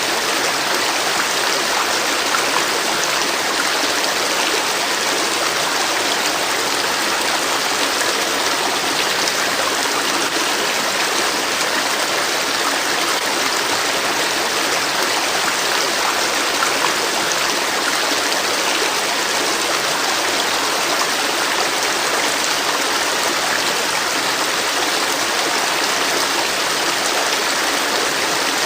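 River water flowing in a steady, even wash of sound, with no change or break.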